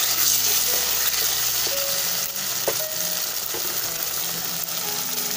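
A spice, onion and moong dal mixture sizzling in hot oil in a frying pan while it is stirred, with a few short scrapes of the spatula against the pan.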